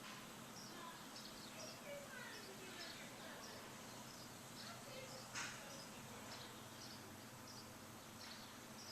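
Small songbirds chirping, many short high chirps repeating over and over with a few lower falling notes, against a steady background hiss. A single sharp click about five seconds in.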